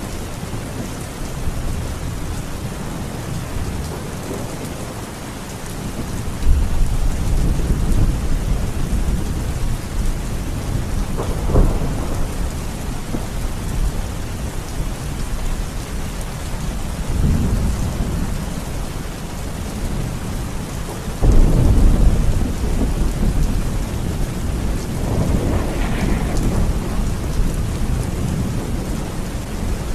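Heavy rain falling steadily through a thunderstorm, with rolling thunder. Low rumbles break out suddenly about six seconds in and again about twenty-one seconds in, with shorter, sharper claps near eleven and twenty-six seconds.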